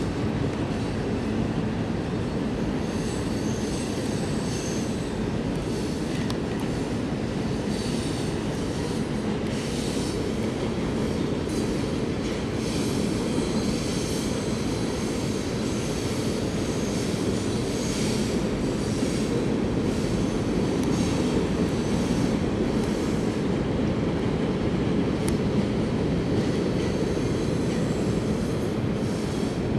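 CSX coal train's hopper cars rolling across a railway bridge: a steady rumble of steel wheels on rail, with thin high wheel squeal coming and going.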